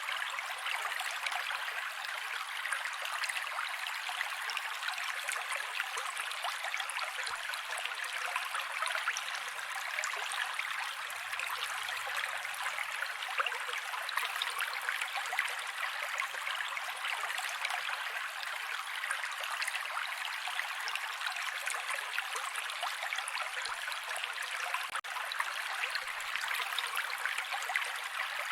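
Mountain creek water flowing steadily: an even, bright rushing and splashing with little deep rumble.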